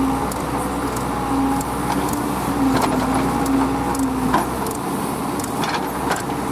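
Heavy diesel machinery running steadily, with a held tone that wavers and breaks off at times, and scattered sharp clanks.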